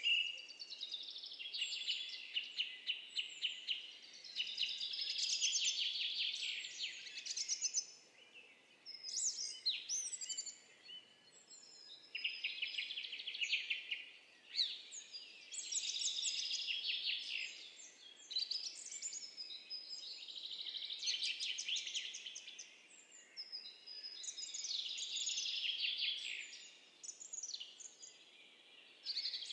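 Birds singing and chirping, many quick high chirps and rapid trills overlapping in bursts, with short lulls between them.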